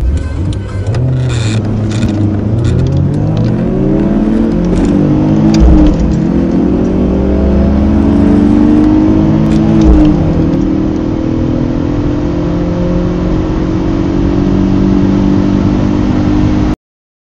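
Two four-cylinder petrol car engines, a BMW 318i E46 and a Honda Civic EJ9 1.4i, heard together accelerating hard from a standstill. Each rises in pitch and drops back at gear changes, with road and wind noise underneath. The sound cuts off suddenly near the end.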